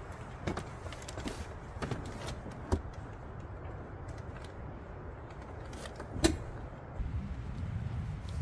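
Vehicle on the move: a steady low rumble with scattered light clicks and rattles and one sharper click about six seconds in. The rumble grows louder near the end.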